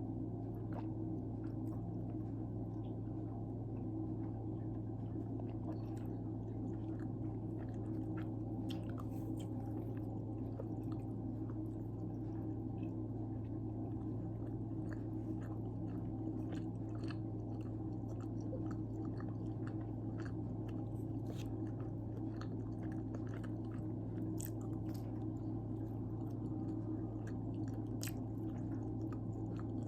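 A person chewing and biting pizza close to the microphone, with many small crunchy clicks from the crust, over a steady low hum.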